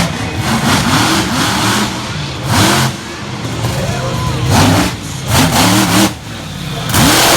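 Monster truck engine revving hard in repeated bursts, its pitch sweeping up and dropping back several times, with loud bursts of exhaust noise on the peaks.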